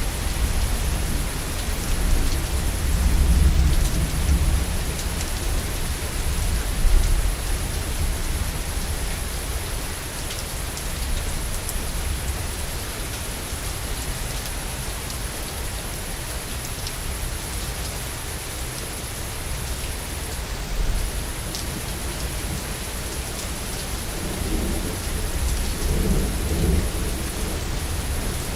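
Steady heavy rain with rolling thunder. Low rumbles are strongest a few seconds in and build again near the end.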